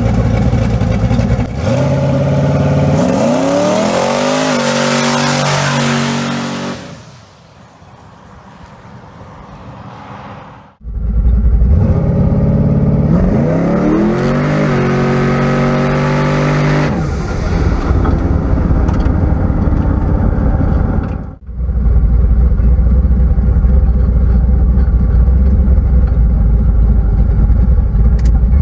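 A car engine accelerating hard, its pitch climbing through the revs twice in a series of rising sweeps, with steady running between. The sound cuts off abruptly about eleven and about twenty-one seconds in, where the footage changes.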